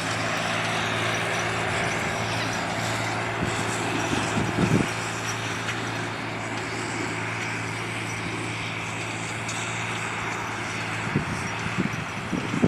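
John Deere 8300 tractor's diesel engine running steadily under load, with a brief louder swell about four and a half seconds in.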